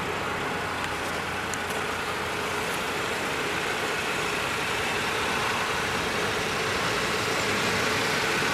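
A motor vehicle engine running steadily, with a faint steady hum over even noise.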